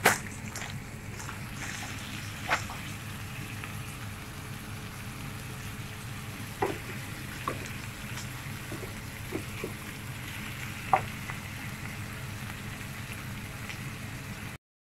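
Flatbread frying in a hot oiled pan, a steady sizzle broken by a few sharp clicks, which cuts off abruptly near the end.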